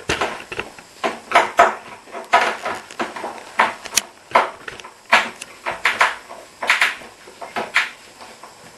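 Irregular clicks and scrapes of a screw being driven by hand and the plastic front panel of a Smeg dishwasher door being handled, several short knocks a second.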